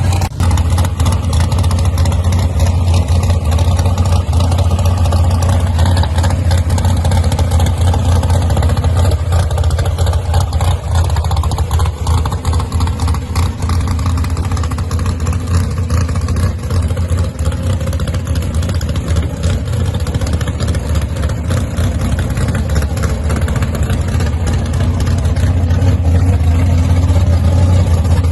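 Loud engine of a gasser-style hot rod running steadily at low revs, its exhaust a dense, even pulsing with no big revs.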